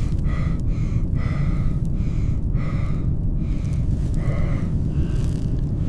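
Heavy, rhythmic panting breaths, about two a second, over a loud, steady low rumble of blizzard wind that starts suddenly.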